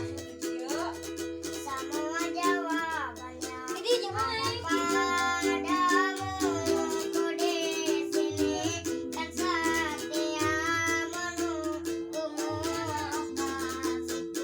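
Four-string ukulele playing chords, with a child singing a sung melody over it from about half a second in until near the end.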